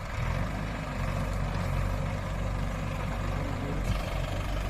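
Mahindra 575 tractor's diesel engine running steadily, growing a little louder just after the start.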